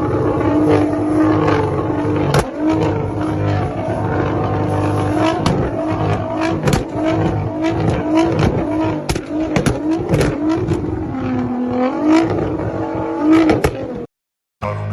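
Nissan GT-R's twin-turbo V6 being blipped over and over, each short rev rising and falling in pitch, with sharp exhaust pops and bangs cracking between the revs, the backfires that throw flames from the exhaust. The sound cuts out suddenly near the end.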